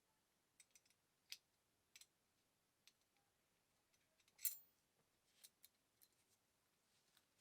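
Sparse light clicks and clinks of small hard objects being handled, the loudest about four and a half seconds in.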